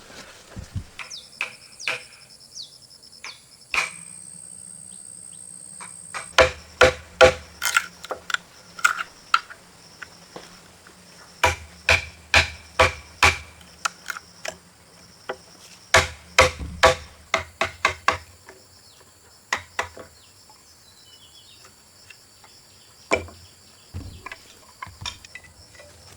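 Blows of a hand tool on a timber post, in runs of about eight to ten strikes a few per second with pauses between, and single knocks here and there. Insects buzz steadily behind.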